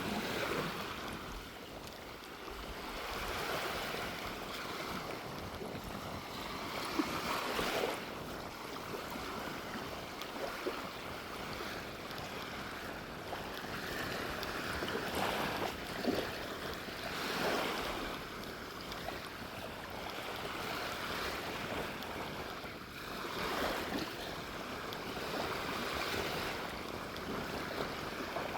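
Gentle waves washing onto a sandy beach, swelling and falling back every few seconds, with a steady sea breeze.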